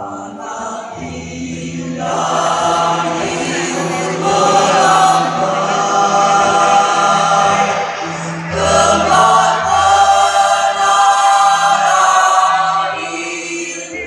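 Choir singing sustained chords. The voices swell about two seconds in, dip briefly a little past halfway, come back in full, and soften near the end.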